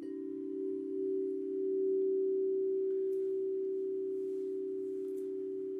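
Singing bowl struck once and left ringing: a steady low hum that swells slightly about two seconds in and then slowly fades, its brighter overtones dying away first.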